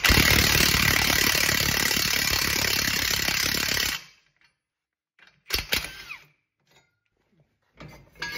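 Power wrench running steadily for about four seconds, driving the center bolt of an exhaust pipe expander so its collets spread and stretch the pipe. A second short burst comes about a second and a half after it stops.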